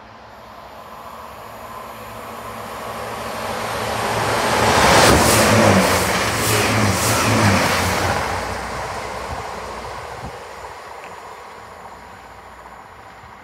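GWR Turbo diesel multiple unit passing through the station at speed. It builds from a distant rumble to a rush with an engine hum, then fades away. At its loudest, about five seconds in, there is a run of wheel clatters about half a second apart as the bogies go by.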